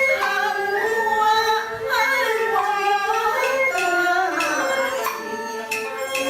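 Taiwanese opera (gezaixi) music: a voice sings a gliding, drawn-out melody over instrumental accompaniment, with a few sharp percussion strokes in the second half.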